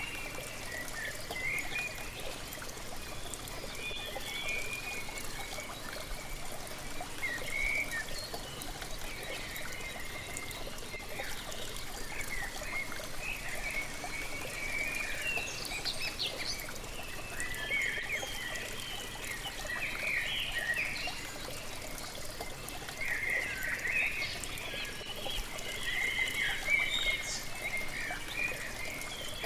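Falling water running steadily, with birds chirping and calling over it throughout, the calls busiest in the second half.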